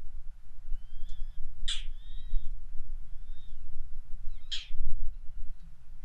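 Birds calling: two loud, short, harsh calls about three seconds apart, with thin whistled notes between them, over a steady low rumble.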